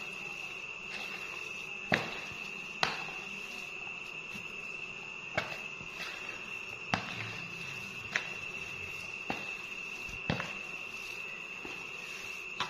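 A steady high-pitched whine or trill, like an insect, runs throughout, with about eight sharp knocks or taps scattered at irregular intervals.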